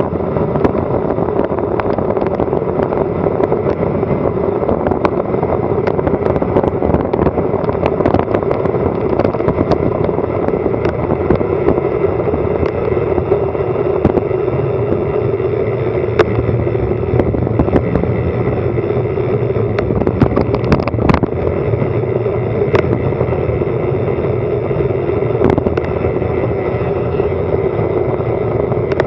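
Steady rush of wind over an action camera's microphone on a fast bicycle descent, with frequent sharp clicks and knocks from the bike over the road surface.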